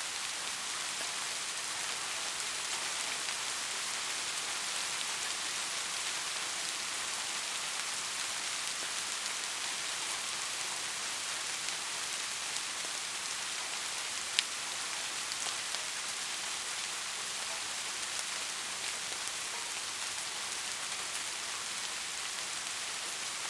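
Steady rain falling, an even hiss with scattered drop ticks; one sharp, louder tick stands out a little past halfway through.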